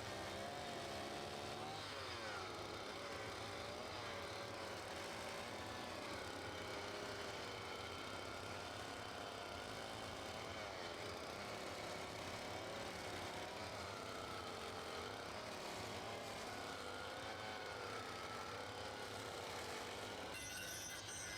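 Vehicle engine running steadily, its pitch drifting up and down with the throttle. Music comes in near the end.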